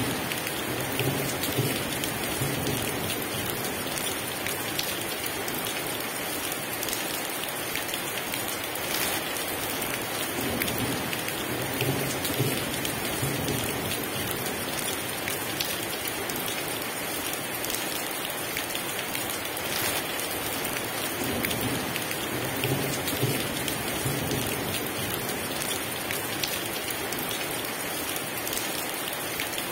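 Heavy rain pouring steadily, with a low rumble of thunder coming back about every ten seconds.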